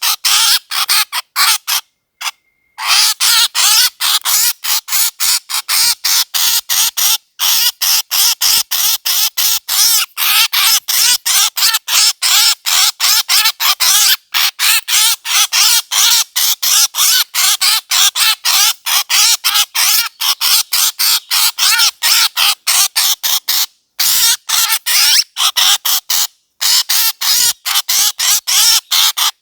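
Repeated bird calls played as a hunting lure: short, high calls in a fast, unbroken run of about four a second, pausing briefly about two seconds in and twice more near the end.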